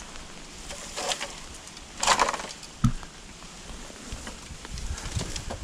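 Rustling and swishing of a felled bamboo stalk and its leafy branches being hauled, loudest about two seconds in, with one sharp knock of the bamboo a little under three seconds in.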